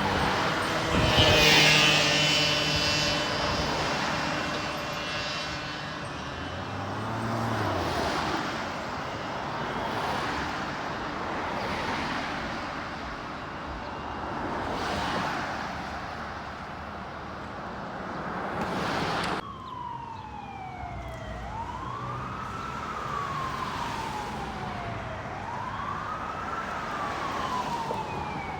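A heavy vehicle going by with engine and road noise, loudest about a second in. After an abrupt cut, an emergency siren wails, rising and falling slowly about every four seconds.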